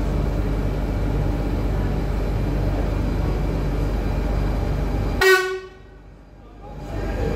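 SNCF Régiolis (Alstom Coradia Polyvalent) multiple unit rolling slowly into the platform with a steady low rumble. About five seconds in it gives one short toot of its horn, and the sound drops away sharply for a moment right after.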